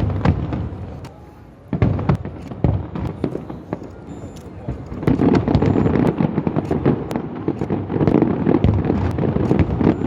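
Fireworks going off: a sudden loud burst right at the start and another just under two seconds in, then from about five seconds on a dense, continuous crackling of many sharp pops.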